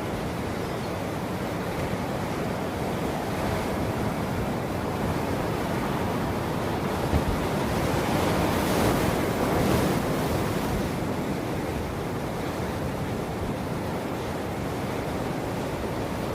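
Ocean waves washing onto a shore in a steady surf wash, with one wave building and breaking more loudly between about eight and ten seconds in before easing back.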